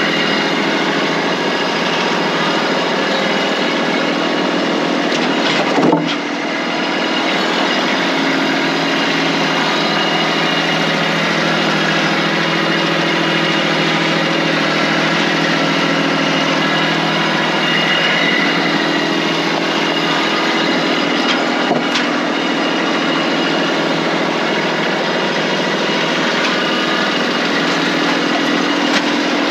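Tractor engine running steadily, with a sharp knock about six seconds in and a fainter one near 22 seconds, like logs striking.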